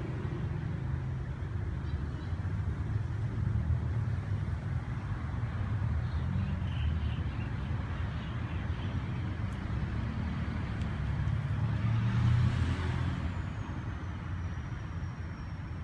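Steady low rumble of motor traffic, swelling as a vehicle passes about three-quarters of the way through.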